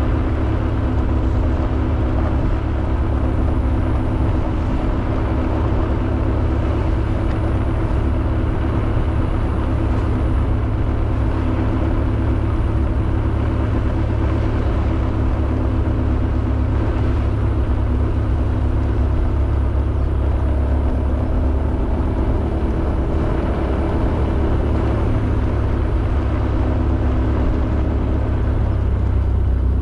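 Honda Beat 110cc scooter's single-cylinder engine running at a steady cruise, under a heavy low rumble. There is no change in pace or pitch.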